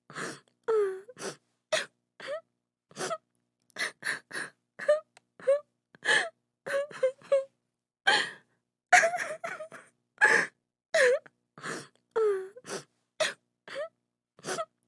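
A woman crying: short sobbing gasps and catches of breath, about two a second, some with a brief wavering wail, broken by silent gaps.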